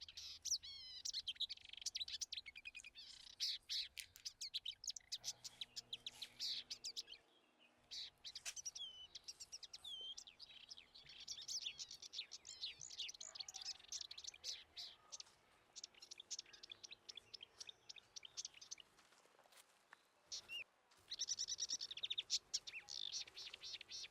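Songbirds chirping and trilling in quick, high calls and short pitch glides, with a couple of brief breaks.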